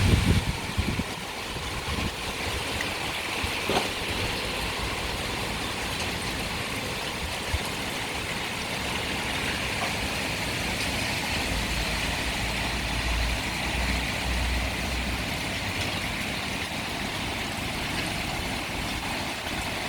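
Heavy rain pouring steadily as a dense hiss, with wind gusts rumbling on the microphone right at the start. A low rumble joins in from about twelve to fifteen seconds in.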